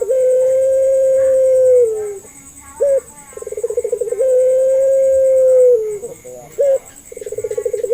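Puter pelung dove cooing its drawn-out call over and over: a short note, a fast rolling coo, then one long steady held note that drops at the end. The call comes about every four seconds, twice in full with a third starting near the end.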